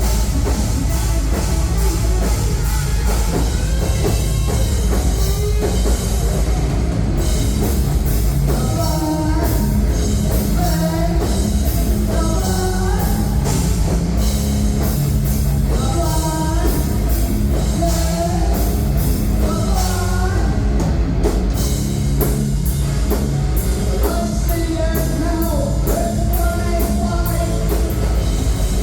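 A live rock band playing loud, with drums, bass and distorted guitars throughout; a singer's voice comes in from about eight seconds in, in short phrases.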